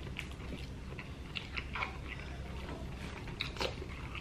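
Two people chewing soft food, lobster tail meat and shrimp-loaded baked potato, with scattered small wet mouth clicks.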